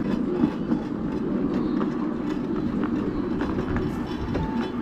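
Miniature train running along its track, a steady rattle with many small clacks.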